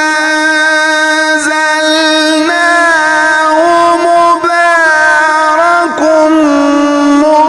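A male Quran reciter chanting in the melodic mujawwad style, drawing out a phrase on long, ornamented notes that stay mostly level in pitch with small glides between them.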